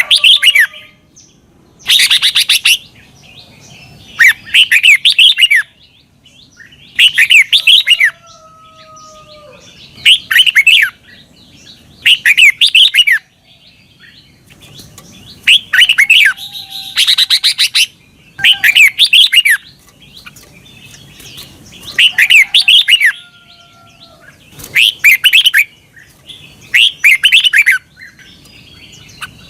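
Red-whiskered bulbul singing: short, quick, chattering phrases of rapid notes, each under a second long and repeated every two seconds or so. This is the bulbul's 'double' song played to caged birds as a model for them to copy.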